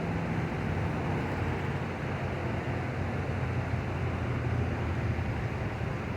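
Wind blowing steadily, with a low hum underneath.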